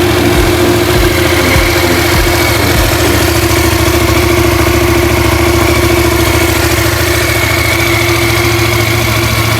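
Yamaha MT-07's 689 cc parallel-twin engine idling steadily just after a start, with a few low pulses in the first couple of seconds before it settles.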